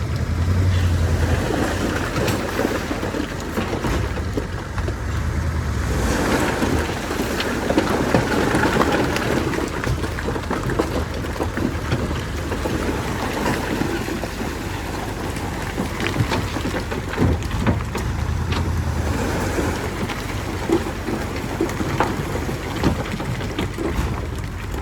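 Heavy earthmoving machinery at work: a diesel engine running under load with a constant rushing noise and many short clanks and rattles, as of a bulldozer's tracks and blade moving dirt.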